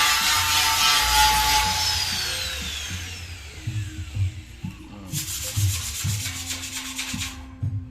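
Power sanding tool on steel: it runs with a whine, then its pitch falls as it winds down over the first three seconds. A burst of scraping sanding strokes follows about five seconds in.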